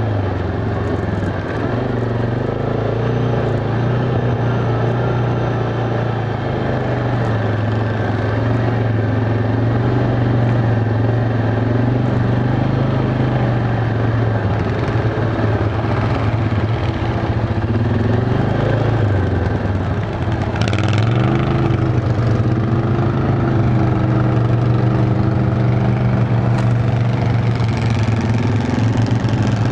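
ATV engine running steadily under way, heard from on board; its pitch drops and then climbs again about two-thirds of the way through as the rider eases off and accelerates.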